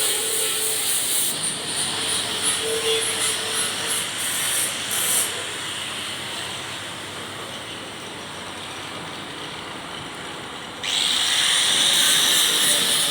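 Steady hissing workshop noise that turns suddenly louder and sharper about eleven seconds in.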